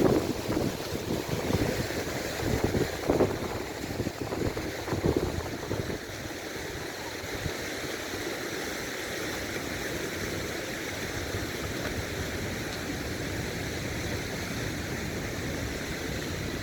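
Steady rushing of Düden Waterfall, with a few louder low gusts in the first five seconds, like wind on the microphone.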